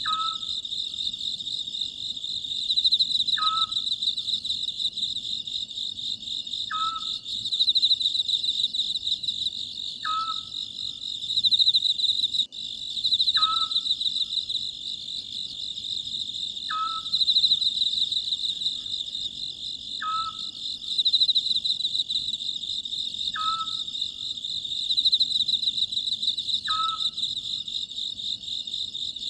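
Oriental scops owl calling a short note about every three and a half seconds, nine times, each note dropping quickly to a clear held pitch. Behind it crickets and other insects chirp fast and continuously, swelling and fading every few seconds.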